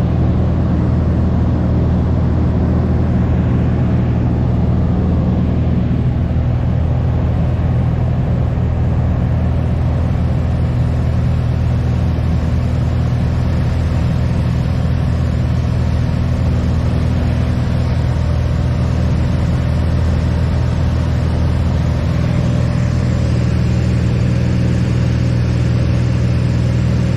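Light piston airplane's engine and propeller droning steadily in cruise, a constant low hum with no change in power.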